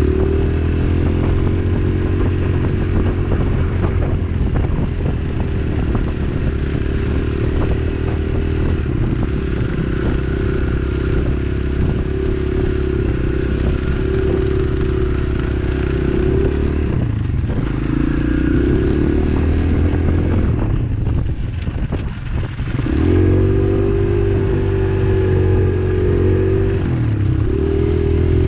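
Dirt bike engine running steadily under throttle while riding. Past the middle it eases off twice, the engine note dropping, then picks back up.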